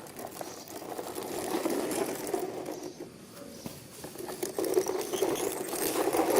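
Small battery-powered plastic toy running: a fast, rattling motor buzz that swells twice.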